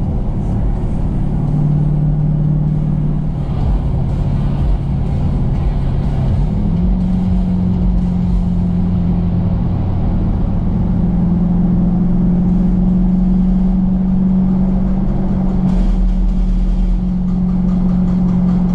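Dodge Challenger engine droning steadily under way, its pitch stepping up about six seconds in and then holding at the higher revs.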